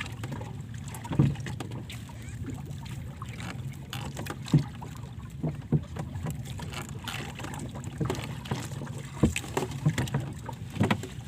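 Playing a hooked fish on rod and reel: irregular knocks and clicks over a steady low rumble, with no speech.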